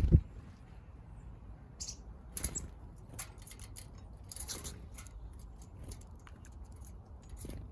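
Small backyard birds pecking at food: scattered sharp clicks and light crunches. A dull thump right at the start is the loudest sound.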